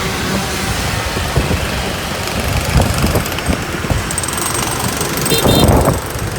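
Motorbike engine running under way, with a low, uneven rumble of engine, road and wind; a brief high beep sounds about five seconds in.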